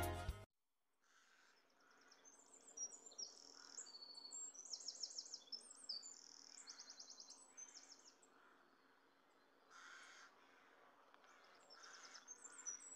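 Faint chirping of small birds in short, high, quick bursts over quiet outdoor ambience, after background music fades out at the very start.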